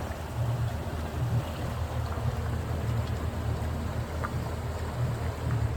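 Boat engine running steadily at cruising speed, a low throbbing hum with water and wind noise over it, while towing a salvage barge.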